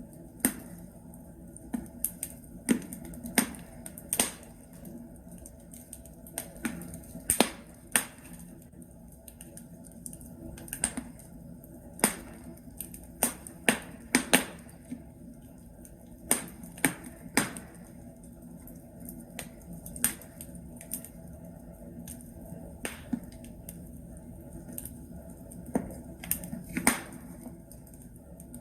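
Burning logs in a fireplace crackling, with irregular sharp pops and snaps over a low steady hiss of the fire.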